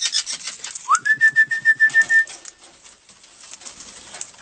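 A parrot's call: a quick rising note about a second in, then a steady whistled note rapidly pulsed for just over a second.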